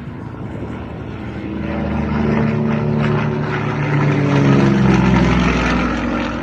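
Aircraft flying low past the crowd: its engine grows louder, peaks about five seconds in, then drops in pitch as it passes and fades.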